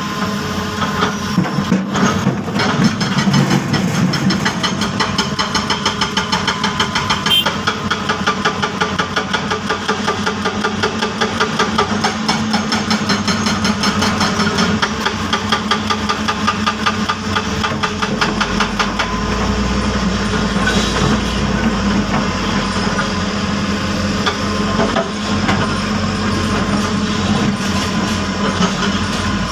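Heavy diesel engine of construction machinery running steadily with a fast pulsing beat, with a few sharp knocks and a deeper rumble coming in about two-thirds of the way through.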